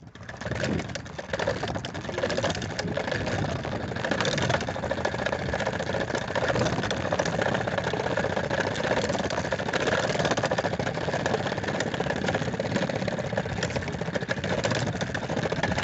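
Steady drone of aircraft engines and airflow heard inside an airliner's cabin, with faint rattles and crackles over it.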